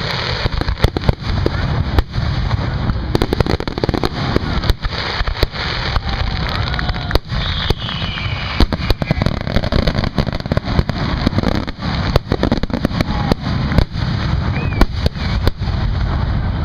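Fireworks display: aerial shells bursting in a rapid, irregular string of sharp bangs over a continuous rumbling crackle.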